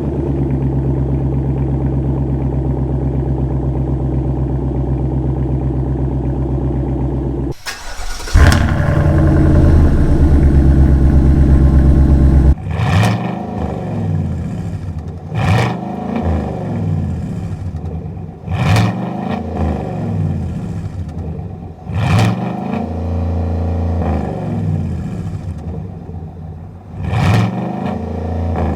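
2020 Chevy Silverado's 5.3-litre V8 through a true-dual exhaust with two Borla ATAK crate mufflers, resonator screens removed. It idles steadily after a cold start, then is started again about eight seconds in and holds a louder, fast cold idle. After a cut come a series of quick throttle revs, about five, each a sharp rise and fall in pitch.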